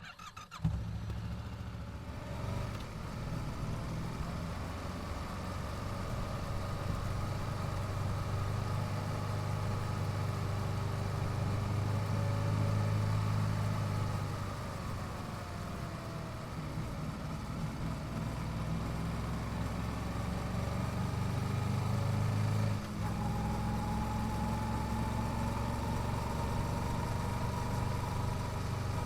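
Yamaha YZF-R7's 689 cc parallel-twin engine, on its stock exhaust, running at low revs. The note swells slowly and eases off, then drops suddenly about 23 seconds in and runs on steadily.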